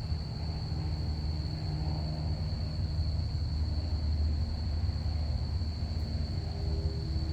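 Crickets chirping in a steady, unbroken high-pitched chorus over the low rumble of a passing plane's engines.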